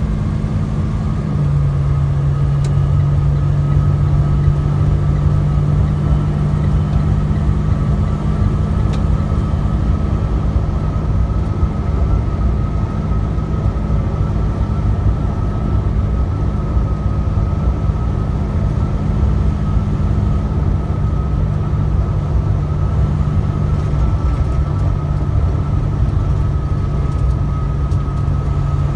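Truck engine running steadily with road noise, a continuous low drone whose pitch steps down slightly about a second in.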